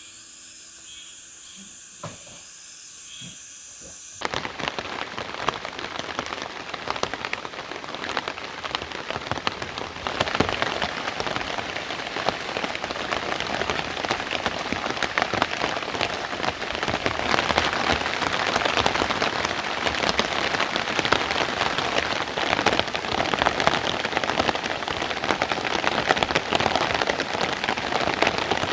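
Heavy rain falling, a dense steady patter of drops on surfaces. It comes in suddenly about four seconds in after faint soft music, and gets heavier about ten seconds in.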